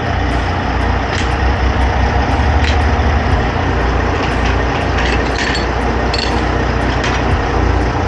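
Heavy truck's diesel engine running with a steady low rumble, with a few short sharp sounds over it.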